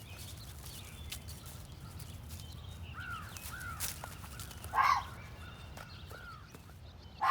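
Two short, harsh animal calls, one about five seconds in and another near the end, over a faint outdoor background with a few soft chirps.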